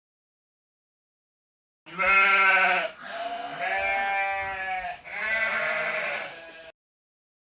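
Sheep bleating, three long calls one after another, starting about two seconds in.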